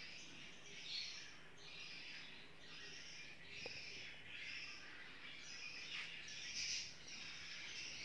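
Small pet birds chirping in a steady run of short, rasping chirps, a little under two a second, with one louder chirp near the end.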